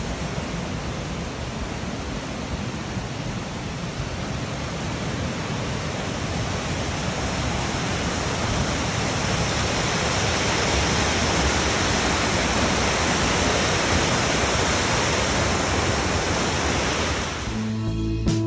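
Waterfall: a steady rush of falling water, growing somewhat louder partway through. It cuts off suddenly near the end, and strummed acoustic guitar music begins.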